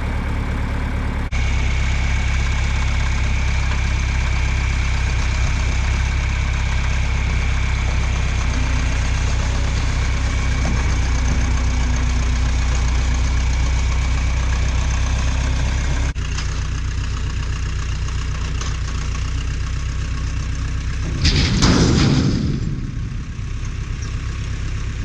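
John Deere 3020 tractor engine running steadily. About three quarters of the way through there is a short, louder rushing burst.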